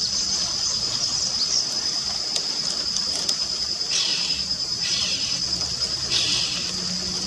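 Black-capped donacobius (japacanim) calling: three short harsh rasping notes in the second half, over a steady high-pitched insect drone.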